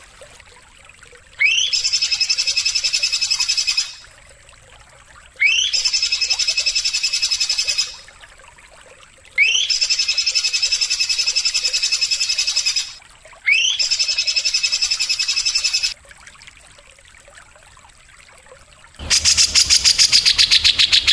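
A songbird repeating the same phrase four times, about every four seconds: a quick rising whistle followed by a fast buzzing trill lasting a couple of seconds. Near the end a louder, different rapid trill comes in.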